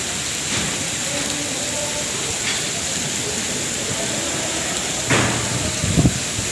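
Steady rain, an even hiss, with faint voices underneath and a couple of low knocks near the end.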